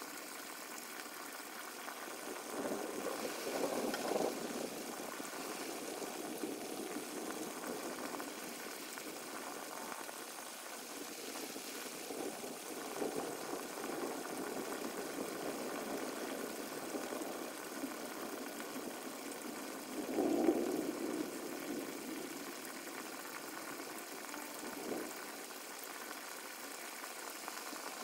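Storm ambience sped up fourfold: a steady rain hiss with a few swelling rumbles of thunder, the strongest about twenty seconds in.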